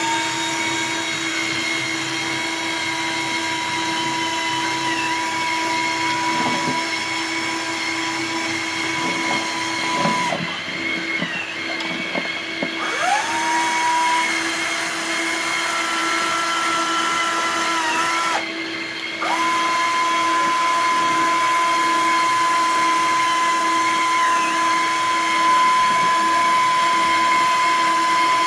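Small electric motors of a scale-model hopper and conveyor setup whining steadily. One higher motor whine cuts out and spins back up with a rising pitch twice.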